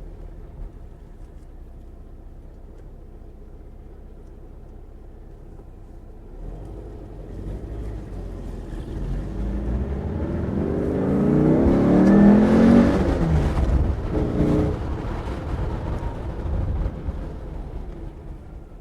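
Air-cooled flat-four engine of a 1967 Porsche 912, newly built to 2.1 litres, pulling under acceleration. A low steady rumble for the first few seconds, then the engine note grows louder and climbs in pitch to a peak about twelve seconds in, drops in pitch, and settles lower toward the end.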